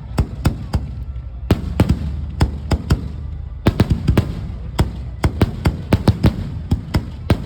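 Fireworks display: a rapid, irregular string of sharp bangs, some coming several a second, over a continuous low rumble.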